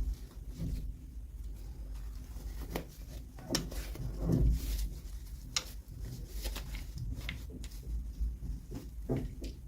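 Hands handling small plastic toys and packaging: irregular small clicks, taps and rustles.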